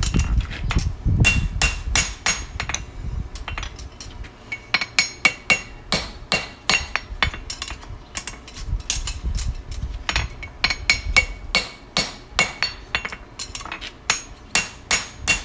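Farrier's hammer striking a hot steel horseshoe on an anvil, a run of ringing blows at a few strikes a second with short pauses between runs, as the toe of the shoe is shaped.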